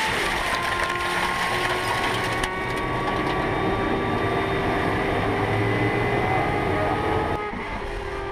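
Racing car engines running at speed, several engine notes held and gliding slowly down in pitch, with sudden changes in the sound about two and a half seconds in and again near the end.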